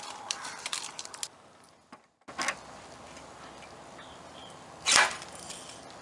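Light ticks, then about five seconds in a single sharp crack from working a glue-tab dent puller on a car's sheet-metal panel. The dent does not come out.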